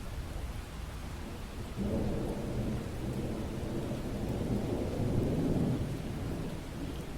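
Steady rain, with a low rumble of thunder that comes in suddenly about two seconds in and dies away about four seconds later.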